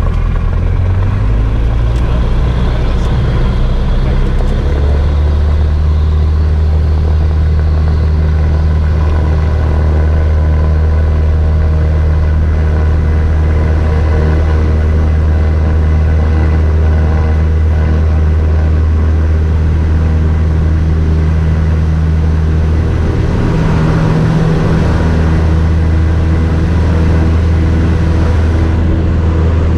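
Cessna 172 single-engine piston engine and propeller running hard with a steady, loud drone. The pitch steps up in the first few seconds, then holds, with a brief dip a little after two thirds of the way through.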